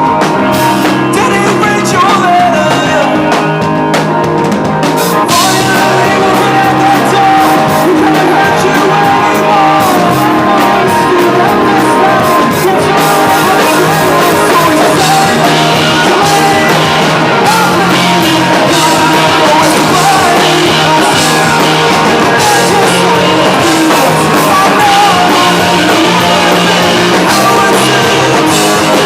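A rock band playing loudly, with singing, guitar and drums; the sound fills out in the high end about five seconds in.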